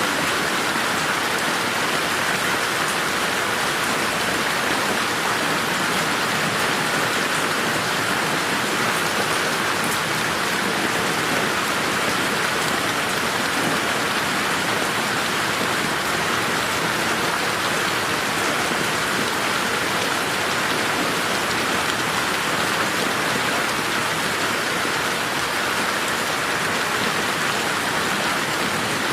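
Steady rain falling on a garden, an even hiss of many drops with no thunder.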